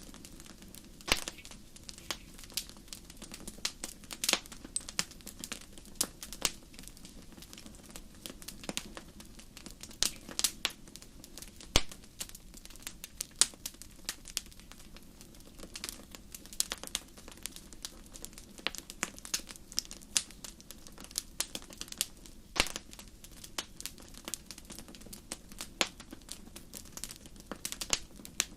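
Bonfire crackling, with irregular sharp pops and snaps over a steady low rush.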